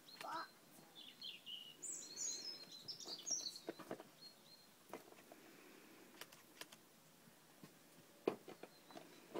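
Birds chirping in short, high twittering calls through the first few seconds, with a few sharp clicks, the loudest one near the end.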